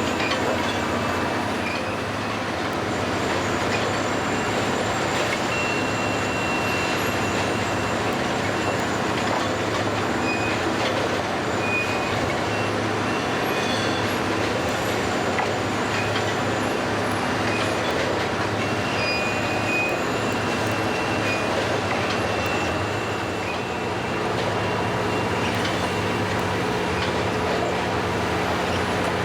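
Track renewal train machinery running steadily with a low hum, with brief high-pitched metallic squeals now and then.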